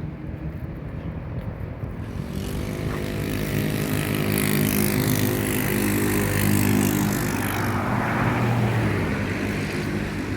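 A motor vehicle driving past on the street: its engine hum and tyre noise swell over a few seconds, peak, then fade away.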